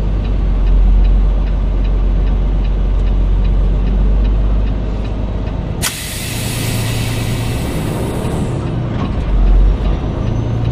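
Tractor-trailer cab with the engine and road noise rumbling steadily, and a sudden hiss of released air from the air brakes about six seconds in that lasts nearly three seconds.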